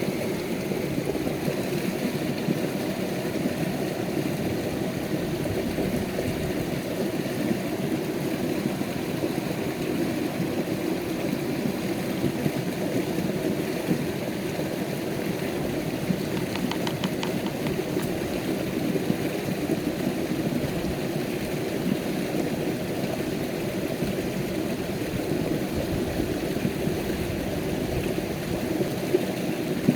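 Steady rushing noise, like running water, with a few faint ticks about halfway through.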